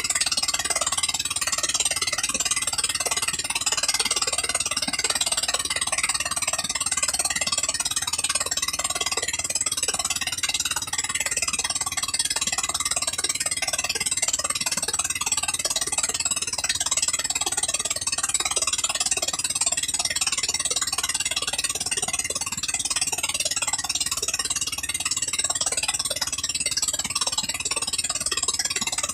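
13 HP gasoline engine running steadily at an even speed.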